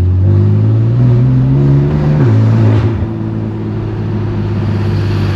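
Straight-piped BMW S55 twin-turbo inline-six in a 2018 F80 M3 Competition, pulling with its pitch rising gently for about two seconds, then dropping off throttle and running on at a low, steady drone, heard from inside the car.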